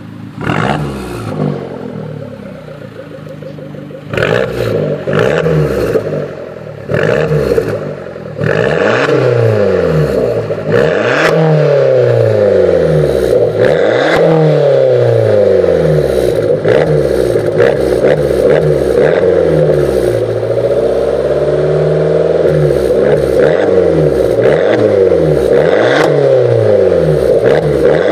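2013 Abarth 595 Competizione's 1.4 turbo four-cylinder revving through a Magneti Marelli Bombardone race exhaust. It gives a few short blips in the first eight seconds, then revs rise and fall again and again, about every two seconds, with occasional sharp cracks.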